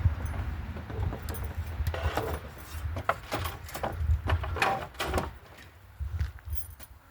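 Irregular rustling and crackling of dry branches and brush, over a low rumble of wind or handling on the microphone, dying down near the end.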